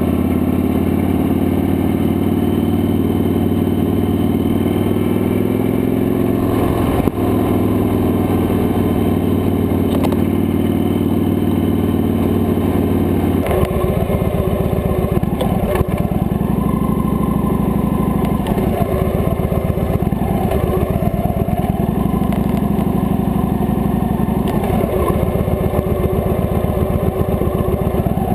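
Victory High-Ball motorcycle's big air-cooled V-twin running at a steady cruise. About halfway through it drops to low revs, with an even, pulsing beat of individual firing strokes as the bike rolls along slowly.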